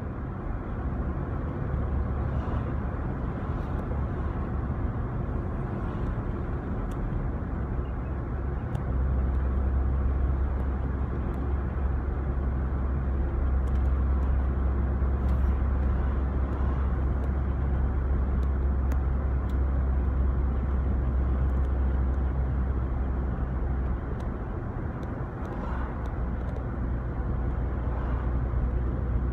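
A car driving along, a steady low rumble of road and engine noise that grows a little heavier about nine seconds in.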